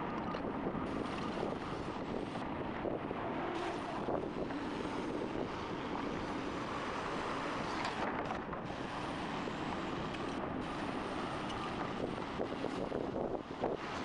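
Heavy machinery running steadily, with gusts of wind buffeting the microphone.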